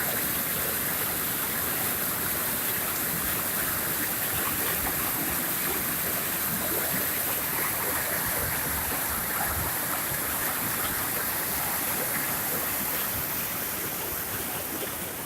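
Spring floodwater rushing steadily through and past a small river bridge. The bridge's opening cannot carry the whole flow, so the water spills around its sides. The rush grows a little fainter near the end.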